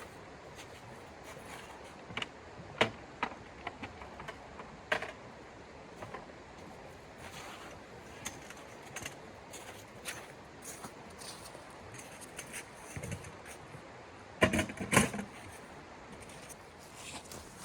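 Scattered light knocks and clicks of things being handled, over a steady low hiss, with the loudest cluster of knocks near the end.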